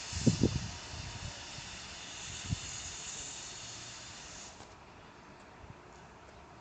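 Steam hissing steadily from the BDZ 46.03 steam locomotive, with a few low thuds near the start and one more a couple of seconds later; the hiss stops abruptly about four and a half seconds in, leaving a much quieter background.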